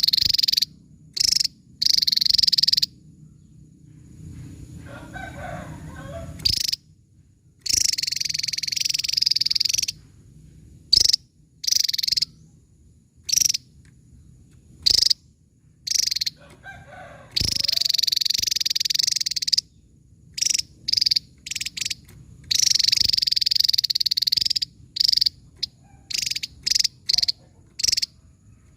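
Javan tesia singing: a run of sharp, high-pitched notes and rapid trills, some lasting one to two seconds, repeated with short pauses between them.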